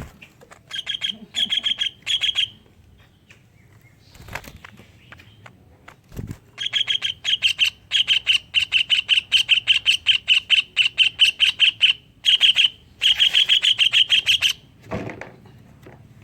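Cucak ijo (green leafbird) singing its learned imitation of a kingfisher's (tengkek udang) call: fast runs of sharp, evenly repeated high notes. Three short runs come near the start, then a long run of about eight seconds with brief breaks, and a few soft knocks fall in the gaps.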